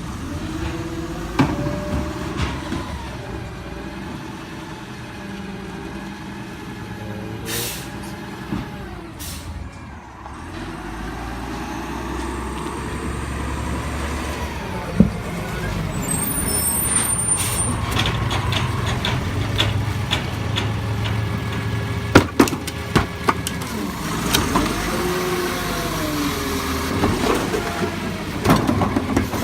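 Recycling truck at work: its engine runs and revs up and down, with two short air-brake hisses about eight seconds in. In the last third come a series of sharp knocks and bangs.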